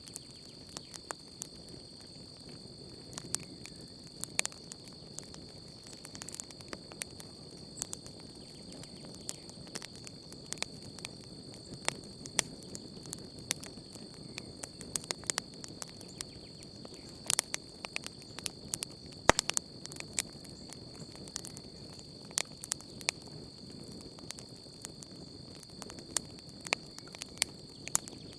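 Campfire burning, with irregular sharp crackles and pops of burning wood over a soft low rush of flame. A steady high insect drone runs underneath.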